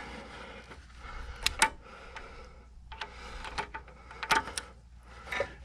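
Irregular sharp metal clicks and clinks of a hydraulic hose quick-coupler fitting being worked by hand as it resists connecting.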